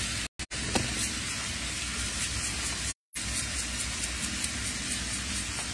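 Food sizzling in hot oil in a pan: a steady hiss with faint crackles. The sound cuts out completely twice, briefly.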